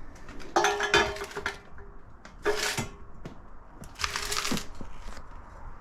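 Two-stroke 2022 Yamaha YZ125 with an FMF Shorty silencer, revved in three short throttle blips over a low idle.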